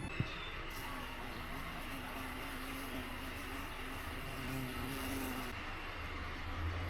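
Steady low rumble of a vehicle in motion, engine and road noise with a faint hum.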